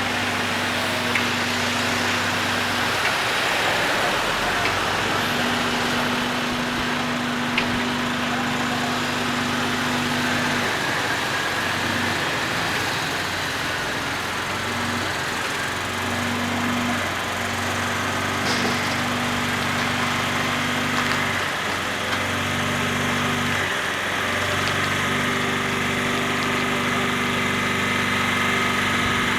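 Engine of the heavy transport vehicle hauling the Shinkansen car, running steadily at low revs with a hum. Its low tones drop out and return every few seconds.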